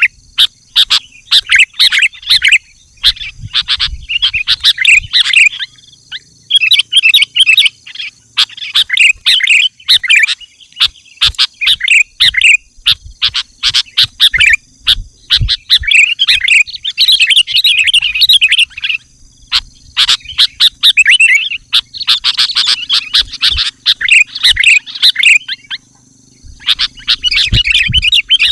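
Sooty-headed bulbul (kutilang) singing vigorously in repeated bouts of quick, chattering phrases with brief pauses between them. A faint steady high-pitched tone runs underneath.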